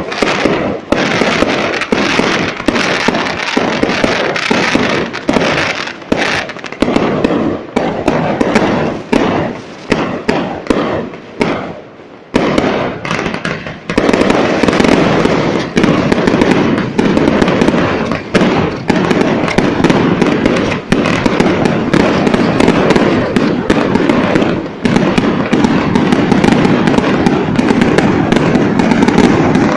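Fireworks display: rapid, nearly continuous bangs that ease off briefly about twelve seconds in, then come back as a denser, louder barrage.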